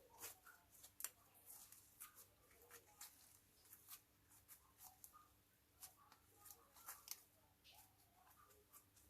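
Slime being kneaded and stretched by hand: faint, irregular sticky clicks and small pops.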